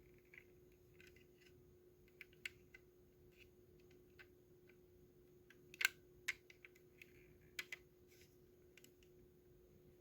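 Near silence with a faint steady hum and scattered small, irregular clicks and taps, the sharpest a little before the middle.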